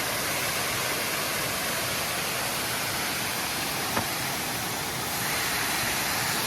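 Steady rushing of a waterfall, an even hiss of falling water, with a single short click about four seconds in.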